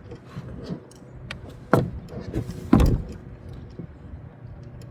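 Knocks and light clatter of fishing gear being handled in a small jon boat, with two loud thumps about a second apart near the middle.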